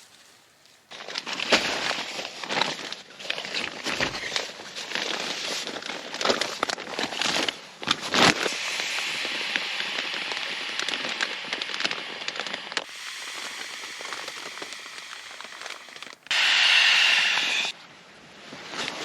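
Nylon camping gear and tent fabric rustling and crinkling as it is handled and unpacked, in a dense, irregular crackle. Near the end there is a loud, steady hiss of about a second and a half.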